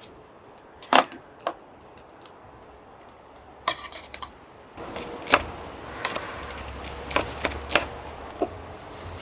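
Irregular sharp knocks and clinks, about a dozen, the loudest about a second in and near four seconds. A low steady hum joins about five seconds in.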